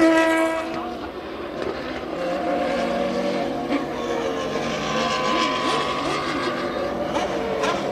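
Formula One racing car engines running, loudest right at the start as a car goes by, then holding a fairly steady note.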